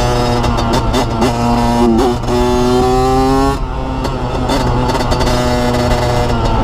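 Dirt bike engine accelerating hard along a road. It climbs in pitch, drops at upshifts about two seconds and three and a half seconds in, then pulls on at a steady pitch.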